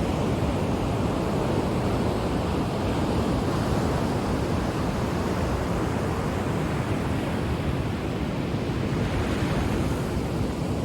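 Ocean surf washing onto the shore, a steady rushing that swells and eases slowly.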